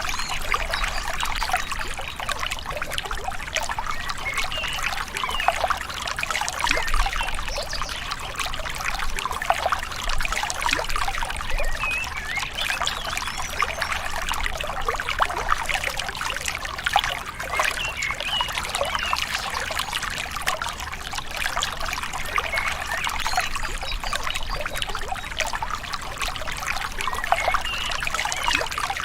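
Small river babbling and trickling steadily, a continuous rush of flowing water full of small gurgles and splashes.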